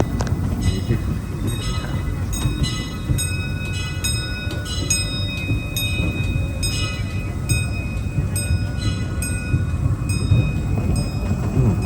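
Disneyland Railroad steam train running along the track, heard from aboard: a steady low rumble with short high squeaks and clicks recurring every half second or so.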